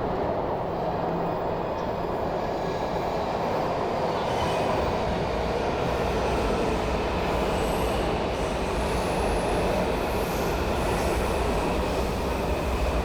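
Steady rumble of a train running on rails, with thin high wheel squeals coming in from about four seconds in.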